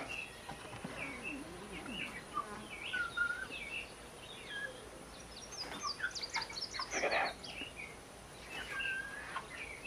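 Several birds chirping and calling in short scattered notes, with a quick run of high chirps about halfway through.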